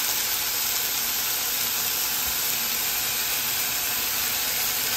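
Diced chicken breast sizzling steadily as it browns in hot olive oil in a saucepan.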